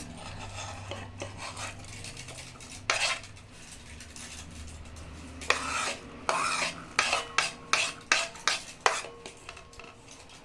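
Chopped fruit being added and stirred into milk in a glass bowl with a spoon, with scraping and a run of sharp clinks of the spoon against the bowl in the second half.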